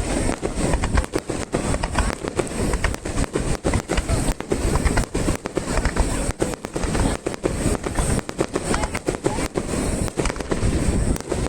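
Fireworks barrage (star mine): shells fired and bursting in rapid succession, a dense run of bangs and crackles with no pause.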